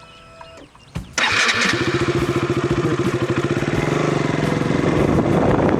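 KTM RC 200's single-cylinder engine starting about a second in, then running steadily at idle.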